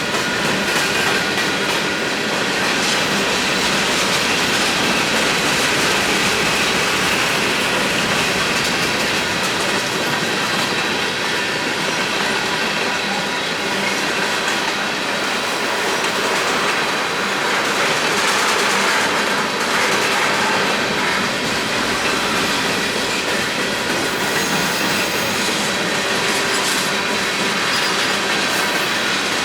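Union Pacific freight train's cars rolling past steadily, wheels clattering over the rails, with a thin high wheel squeal running through it.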